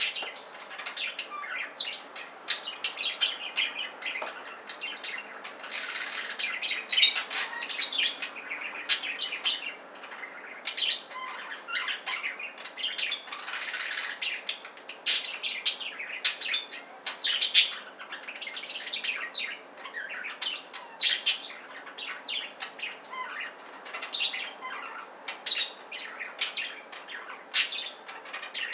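A pair of budgerigars chirping and chattering: a continuous string of short, high chirps with hardly a pause.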